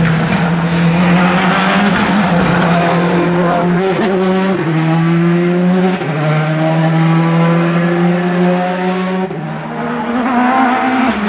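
Rally car engine at full throttle, its pitch climbing steadily and dropping sharply as it shifts up about three times, with a brief lift of the throttle near the end.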